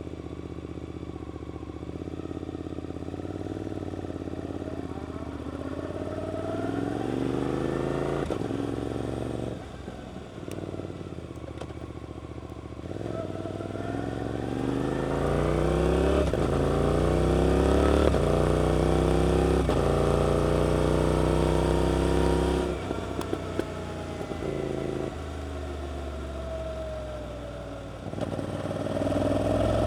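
Suzuki GSX-8S parallel-twin engine through an Arrow aftermarket exhaust, pulling away and accelerating through the gears. The engine note rises in pitch again and again and drops back at each shift, with brief lifts off the throttle about ten seconds in and again near the end.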